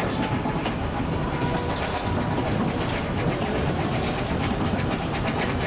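Narrow-gauge passenger train car rolling along the track, a steady rumble and rattle of wheels on rails heard from aboard the open car.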